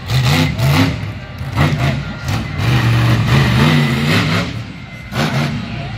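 Monster truck engine revving hard in repeated surges, its pitch climbing and falling several times.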